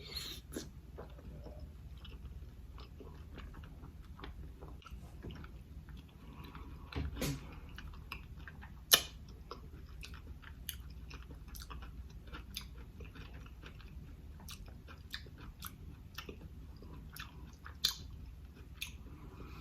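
Close-miked chewing of a big mouthful of rice and seafood, with many wet mouth clicks and lip smacks. One sharp, loud smack about nine seconds in, and another near the end.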